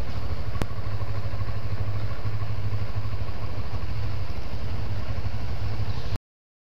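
Motorcycle engine running steadily at low speed, heard close from the bike itself as a low, even drone under road and wind noise. A single sharp click about half a second in, and the sound cuts off to dead silence about six seconds in.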